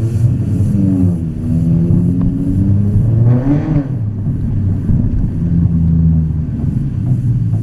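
Volkswagen Scirocco engine and exhaust under throttle, the engine note rising and falling. It climbs sharply about three and a half seconds in, then settles to a steadier, lower drone.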